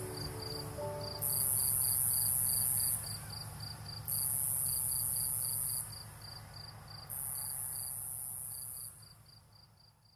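Night insects calling: a cricket chirping in a quick steady pulse, about six pulses a second, under a higher buzzing insect that calls in bouts of about two seconds with short gaps between. A few soft music notes are heard in the first second, and everything fades out at the end.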